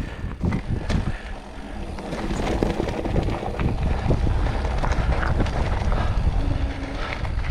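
Mountain bike rolling along a dirt trail: wind buffeting the microphone over the rumble of the tyres, with scattered knocks from the bike. The rumble grows louder about two seconds in as speed picks up.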